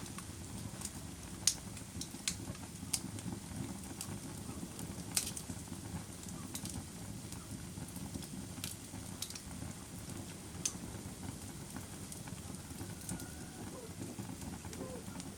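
Wood fire crackling in a fireplace: a steady low rumble of flames with sharp pops and snaps at irregular moments, the loudest about a second and a half in and again about five seconds in.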